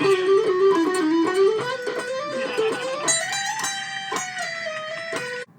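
Guitar music: a melodic lead line of held notes that slide up and down, cut off suddenly near the end.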